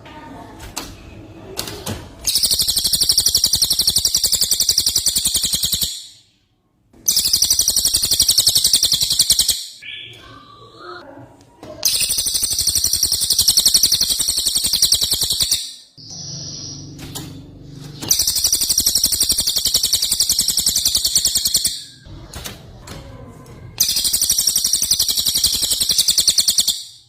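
A cucak ijo (leafbird) singing in loud, very fast high-pitched trills: five long bursts of about four seconds each, with quieter, varied twittering between them. These rapid bursts are the 'tembakan' (shots) that bird keepers use to provoke other leafbirds.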